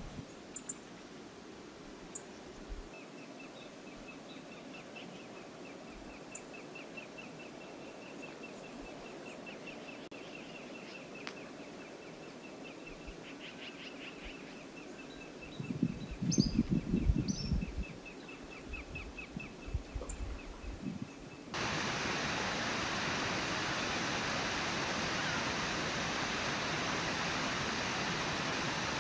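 Quiet outdoor ambience with a long, fast, even trill from a bird or insect, a few high chirps and some low wind thumps on the microphone, then an abrupt cut about 21 seconds in to the loud, steady rush of a river.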